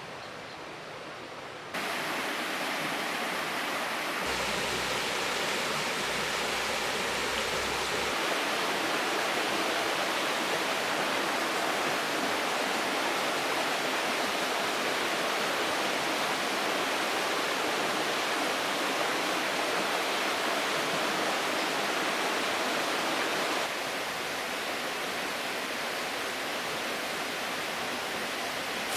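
Steady rush of river water, with no distinct events. It jumps abruptly louder about two seconds in and drops slightly near the end.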